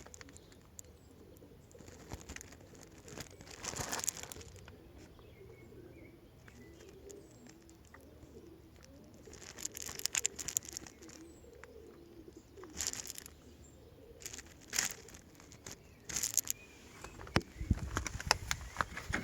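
Faint bird cooing with a wavering low call, broken by a few scattered knocks and clicks.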